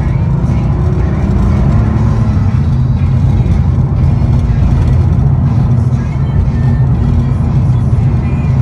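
Porsche 964's air-cooled 3.6-litre flat-six running steadily at a light cruise, heard from inside the cabin over road noise.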